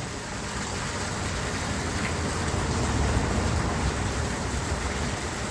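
Steady splashing, rushing water noise from live fish in water, swelling slightly around the middle.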